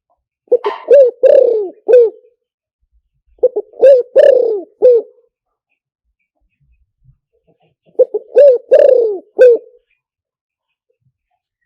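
Spotted dove cooing: three phrases of four or five short coos each, a few seconds apart. It is a recorded decoy call, played to lure wild doves.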